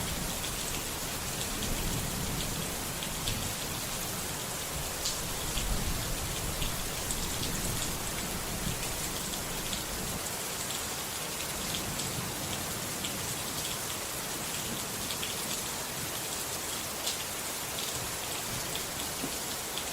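Steady rain falling on a surface, with many distinct drops ticking. A low rumble of thunder dies away over the first several seconds.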